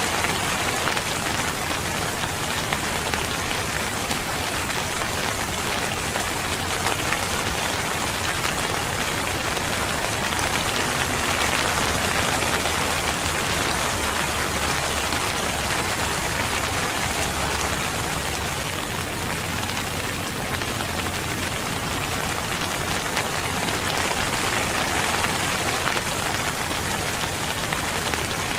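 Steady rain falling, a dense, even wash of drops that holds at one level throughout.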